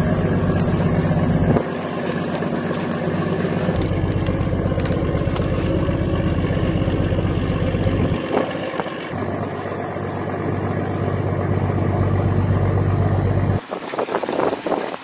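A boat engine runs steadily, a low even hum that breaks off abruptly and resumes several times. Near the end it stops and gives way to wind buffeting the microphone and water noise.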